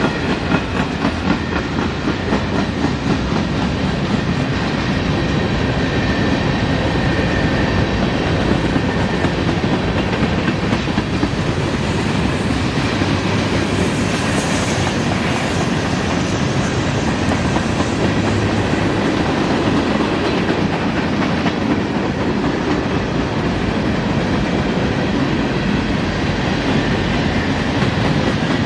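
Freight train cars rolling past, steel wheels clattering steadily over the rail joints.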